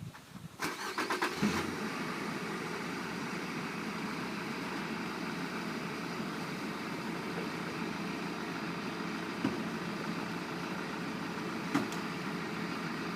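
A fire engine's motor starting after a few clicks and knocks, then running steadily. Two brief knocks come near the end.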